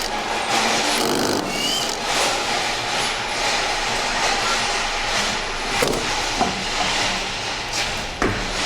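Steady workshop noise with a few sharp clicks and knocks, the first about six seconds in and the last near the end.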